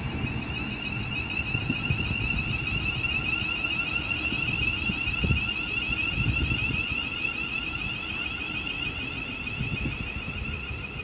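A train passing on the main line: a low rumble of wheels under a steady, slightly warbling high-pitched whine.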